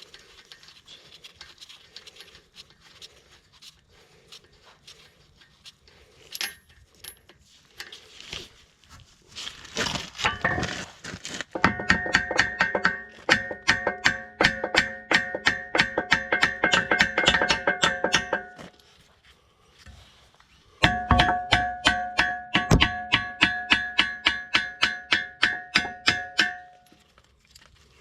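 Quick, regular hammer strikes on a steel pin in a mini excavator's blade, each blow ringing metallically. The strikes come in two runs of several seconds each, about three or four a second, with a pause between.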